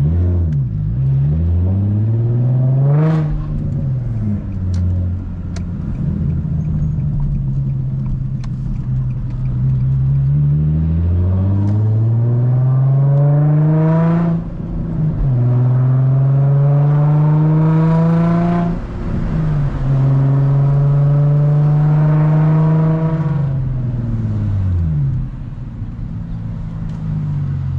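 Infiniti G35's 3.5-litre V6, muffler and resonator deleted, pulling through the gears of a six-speed manual. The exhaust note rises with the revs and drops sharply at three upshifts. It holds steady at cruise for stretches, then falls away as the car slows near the end.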